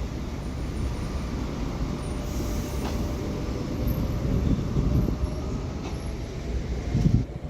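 TFS tram pulling away: a low rumble of wheels and running gear on the rails with a faint steady whine, and a couple of light clicks.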